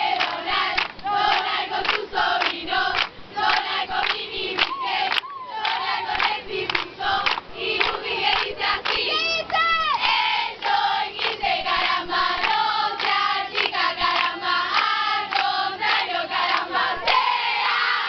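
A group of young voices chanting and singing together in short rhythmic phrases, with shouts and a few shrieks mixed in.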